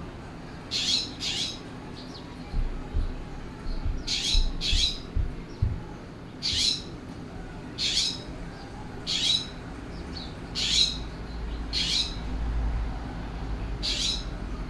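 California scrub jay giving short, harsh calls, singly or in quick pairs, about a dozen spread evenly through the stretch.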